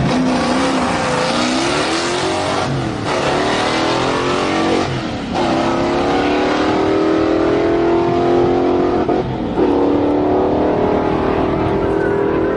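Engine revving, its pitch rising and falling for the first few seconds, then running at a steady high pitch, with brief drops about three, five and nine seconds in.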